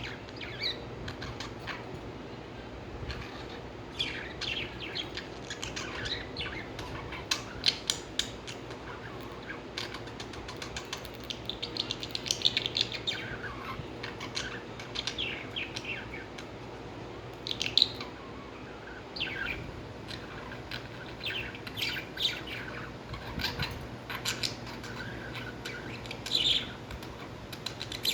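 Lovebirds chirping: many short, high calls at irregular intervals, with scattered sharp clicks among them.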